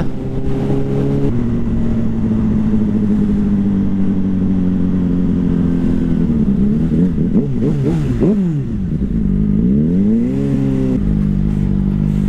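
Suzuki GSR 600 inline-four motorcycle engine running under the rider. Its note holds steady at first, then falls and rises again several times in the second half as the bike slows and picks up speed, filtering through slow motorway traffic. There is a step in pitch just after a second in and another near the end, like gear changes.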